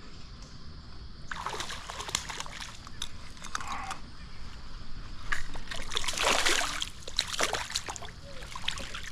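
Water splashing in two spells, the second louder, as a hooked brown trout is brought in by hand in a shallow stream.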